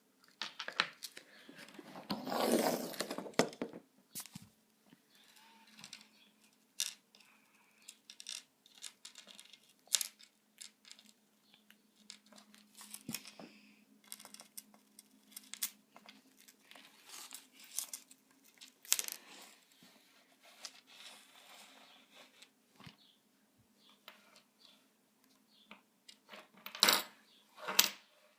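A budgie pecking at and knocking small objects about on a tabletop: scattered light taps and clicks, a longer rustling scrape about two seconds in, and a louder clatter near the end.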